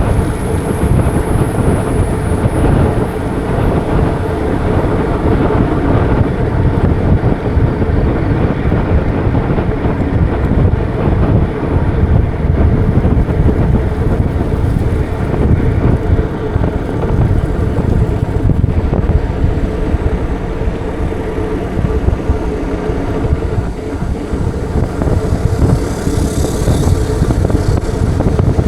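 Wind rumbling on the microphone and road noise from a bike ridden through city streets, steady and loud, with a faint steady hum underneath and a brief hiss near the end.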